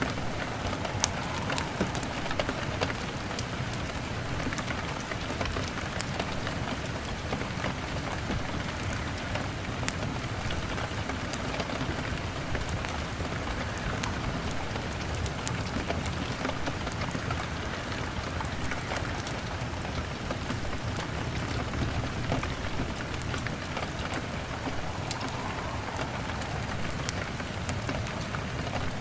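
Steady rain on a window, with the small sharp crackles of a wood fire scattered through it.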